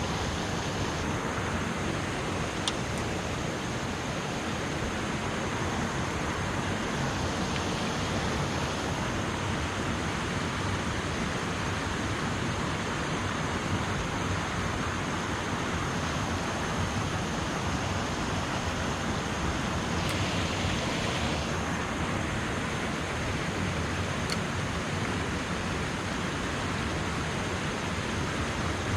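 Steady rushing of river water spilling over and below an old dam.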